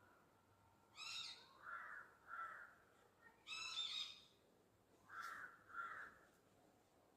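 Crows cawing outdoors: a series of short caws, some in quick pairs, with two harsher, longer calls about one and three and a half seconds in.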